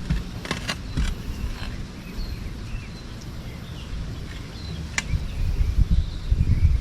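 Wind buffeting the microphone as a low rumble that swells near the end, with a few light clicks in the first two seconds, one sharper click about five seconds in, and faint high chirps.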